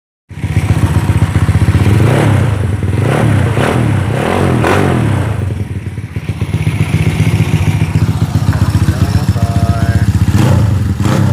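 Motorcycle engine running at idle, blipped with several quick throttle revs about two to five seconds in, settling back to idle, then revved once more near the end.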